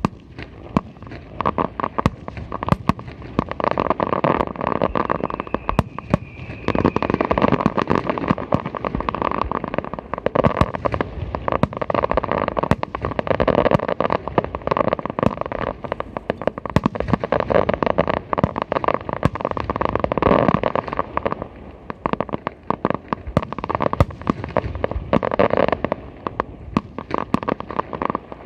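Aerial fireworks going off: a dense, continuous crackle of many rapid small bangs, swelling into louder volleys every few seconds and easing between them.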